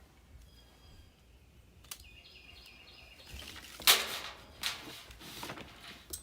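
Hand work on furnace parts: a sharp click, then a few loud, short scraping and handling noises about halfway through. Faint bird chirps sound in the background.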